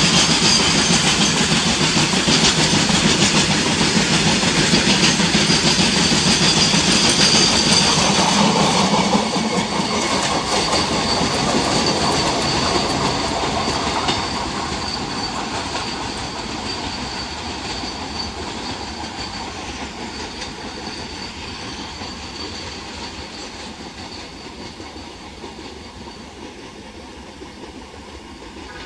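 Loaded BOXN open freight wagons of a coal train rolling past, wheels clattering over the rail with a thin, steady high squeal. About nine seconds in the last wagons go by, and the rumble fades steadily as the train draws away.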